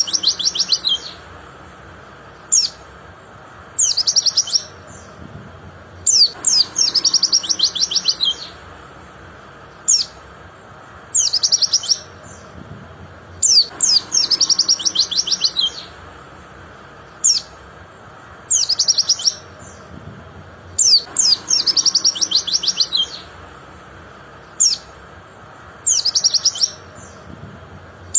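White-eye (pleci) song: single sharp high chirps alternating with bursts of rapid, high down-slurred notes, about two seconds long, the same phrase pattern coming round about every seven to eight seconds.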